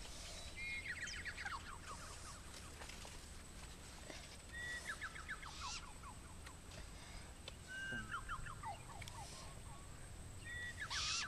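A bird singing the same short phrase over and over, about every three seconds: a brief steady note followed by a quick run of falling notes.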